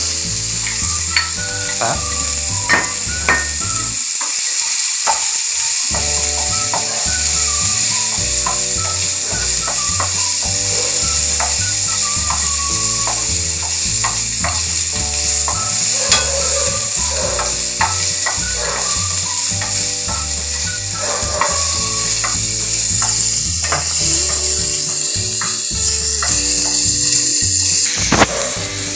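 Sliced onion sizzling in hot olive oil in a deep frying pan, a steady hiss, while a wooden spoon stirs it, with scattered light clicks and scrapes.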